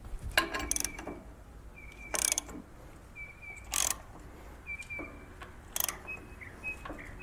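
Wrench tightening the center bolt of a harmonic balancer puller against a lawn mower's flywheel: irregular clicks about once a second, several followed by a short high squeak of metal under load, as pressure builds to free the flywheel from its shaft.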